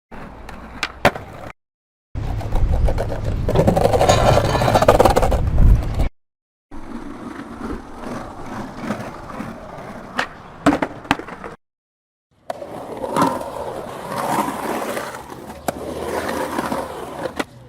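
Skateboard wheels rolling over pavement with a steady grinding rumble, in several short takes split by brief silent gaps, with a few sharp clacks of the board.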